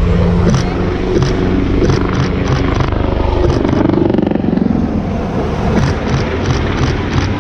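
Military helicopter running overhead, a steady low rotor and engine sound, with a series of short sharp clicks every fraction of a second on top.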